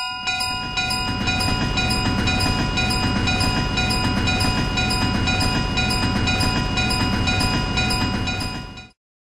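Train passing over a level crossing, a steady rumble of wheels on rails, while the crossing bell keeps dinging about three times a second. Both cut off suddenly near the end.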